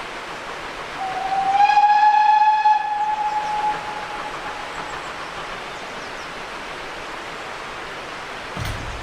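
GWR pannier tank steam locomotive's whistle: one long blast that slides up in pitch as it opens, then holds and fades out after about four seconds, over a steady hiss. A short low thump near the end.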